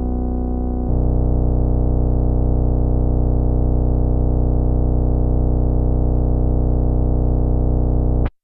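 Electric bass played through an MXR MB301 Bass Synth pedal: one long, held synth bass note. It gets brighter and louder about a second in and cuts off suddenly near the end.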